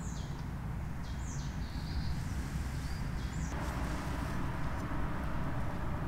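Small birds chirping with short, quick falling calls over a steady low outdoor rumble; a little past halfway a rushing hiss comes up and the chirps stop.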